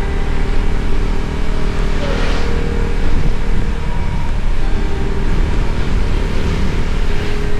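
Wind buffeting the microphone over a motorbike engine running steadily at cruising speed, with a brief rushing swell about two seconds in and another near the end.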